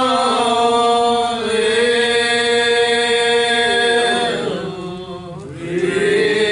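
Church singing: voices holding long notes, a phrase ending and the next beginning about five seconds in.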